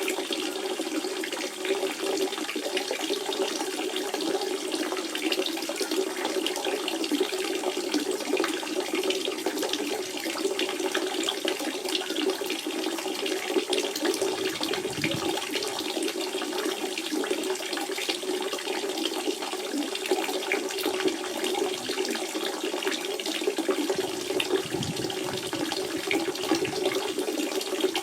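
Spring water running and splashing steadily over stones, a continuous burble with fine splashes.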